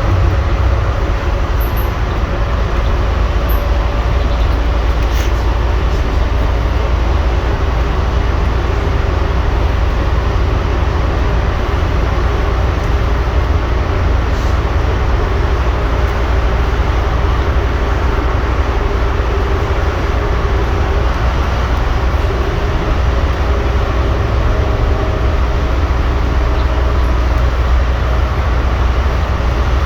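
Scania N230UD double-decker bus running steadily, a continuous low engine drone with road and body noise over it and no sharp changes in pitch.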